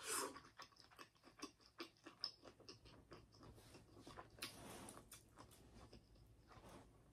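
Faint, close-miked chewing of seafood-boil food: a steady run of soft wet mouth clicks, with a couple of longer, softer chewing sounds partway through.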